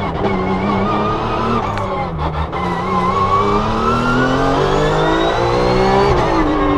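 Race car engine under load: its pitch dips about two seconds in, climbs steadily as it accelerates, then drops sharply just before the end as the driver lifts or shifts.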